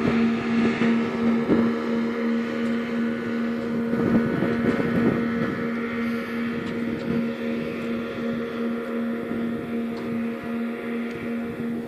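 Small inshore lifeboat's motor running at a steady pitch as the boat heads out, slowly growing fainter.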